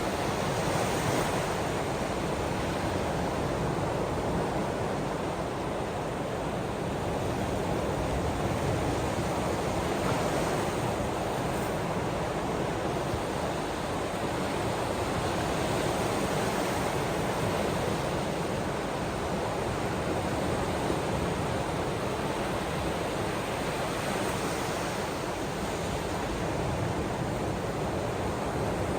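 Ocean waves washing ashore in a steady, even rush of surf that swells gently every few seconds.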